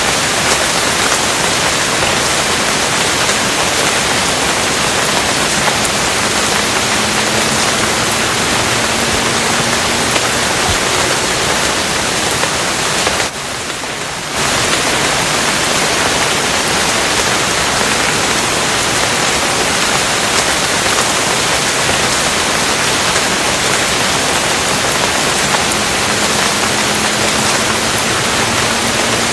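Steady, dense rain falling in an even hiss, dropping briefly and quieter for about a second some thirteen seconds in.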